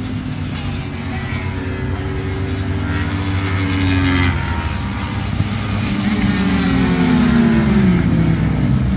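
Motor vehicle engines running and revving, with the pitch falling as one passes about four seconds in and again near the end.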